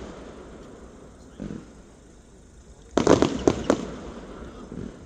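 Fireworks going off: a dull bang about a second and a half in, then a quick cluster of five or six sharp cracks about three seconds in.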